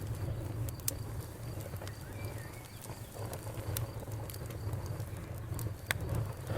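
Campfire crackling, with scattered sharp pops over a low steady rumble. A faint high cricket trill runs underneath, and a bird gives a brief chirp about two seconds in.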